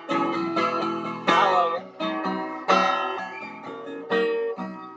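Instrumental passage of a song between sung lines: plucked string chords struck about every second and a half and left to ring out.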